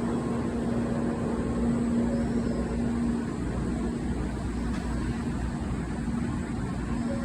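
Sanyo Shinkansen train at the station, a steady rumble with a constant low hum.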